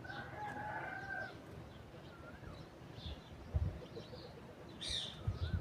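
A rooster crows once at the start, a held call lasting about a second. Short bird chirps follow, with a few low thumps later on.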